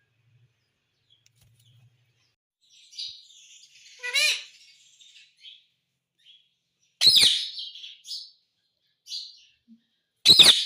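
Pet parrot calling: chirps and a falling squawk about four seconds in, a loud harsh screech about seven seconds in, softer chirps after it, and another loud screech near the end.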